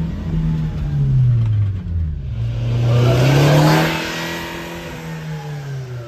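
Subaru Sambar kei truck's small 658 cc four-cylinder engine running, its pitch rising and falling as it revs. A rushing noise swells about two seconds in and fades out again.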